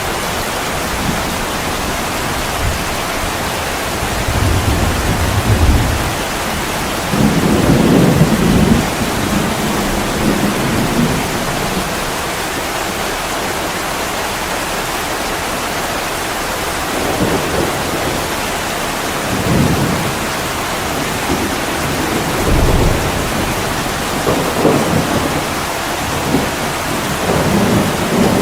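Heavy rain pouring steadily, with low rumbles of distant thunder swelling up several times.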